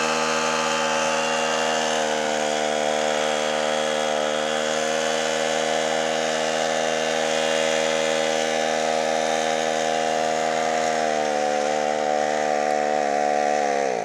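Two-stroke brush-cutter engine driving a homemade boat outboard, running steadily at high revs. Near the end its pitch wavers and sags, then it drops quickly and the engine stalls.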